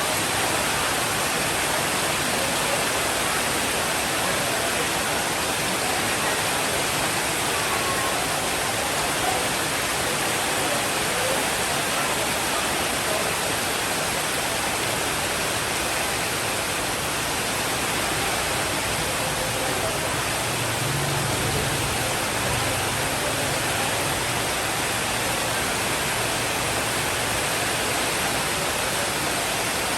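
Steady rain falling in a dense, even hiss. About two-thirds of the way through, a faint low rumble of distant thunder rises under it.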